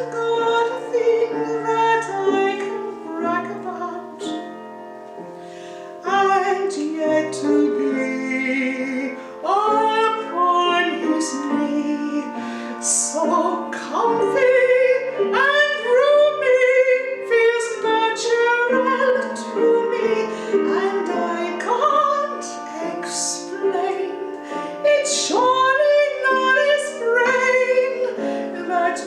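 A woman singing a Broadway show tune in a trained voice with vibrato, accompanied by piano; the music drops to a quieter passage a few seconds in.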